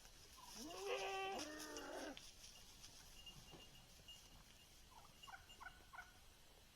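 Farm animals calling: one long call about a second in, then a quick series of short, higher calls near the end.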